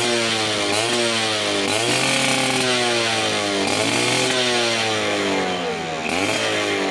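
Suzuki Tornado GX two-stroke motorcycle engine revved again and again through an aftermarket Creampie exhaust, its pitch rising and falling with each throttle blip. The blips come about once a second, with longer revs in the middle.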